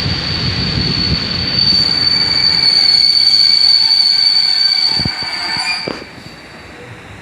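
A passenger train's wheels squealing as it brakes into a station: a steady high-pitched squeal, joined by several more squealing tones. After a couple of knocks the squealing cuts off about six seconds in as the train comes to a stop.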